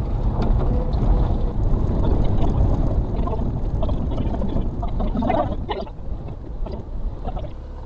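In-cab rumble of a Suzuki Carry kei truck's 660cc engine running as the truck moves over a rough forest track, with body and ground noise mixed in; it eases off over the last couple of seconds.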